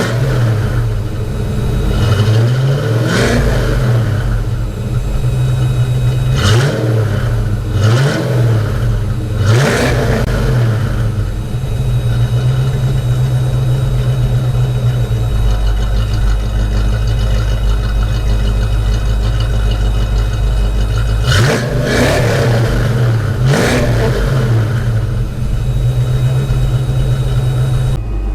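Ford Mustang 5.0 V8 warming up after a cold start: a steady idle broken by about six short throttle blips, four in the first ten seconds and two more after a long stretch of even idling.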